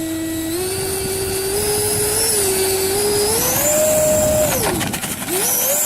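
Electric motor and propeller of a radio-controlled model airplane whining under throttle. The pitch steps up, drops sharply after about four and a half seconds, then climbs back up near the end as the throttle is opened again.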